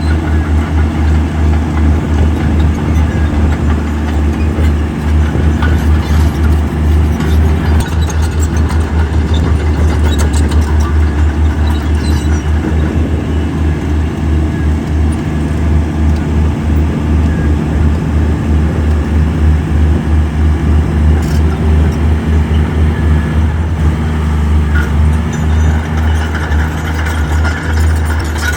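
Heavy construction machine's diesel engine running steadily under load, a deep pulsing drone, with a few faint clanks.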